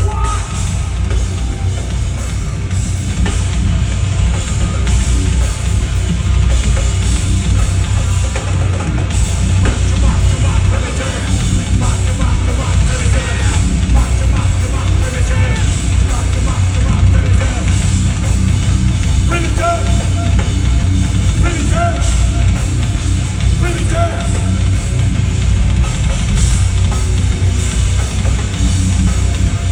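A heavy metal band playing live at full volume, the drum kit pounding under a dense wall of guitar and bass.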